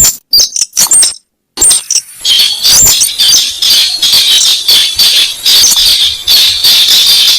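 Recorded lure call of the weris bird: sharp, high clicking notes with short gaps, then, from about two seconds in, a dense, rapid, continuous chattering.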